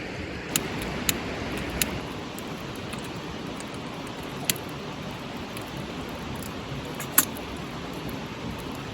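Wood fire crackling with a steady hiss, broken by five sharp pops, the loudest near the end.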